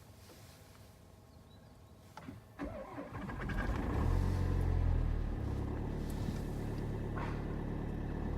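VW Tiguan 2.0 TDI four-cylinder turbodiesel cold-started at about −15 °C. A brief crank about two seconds in, then the engine catches, runs louder and higher for a couple of seconds and settles to a steady idle.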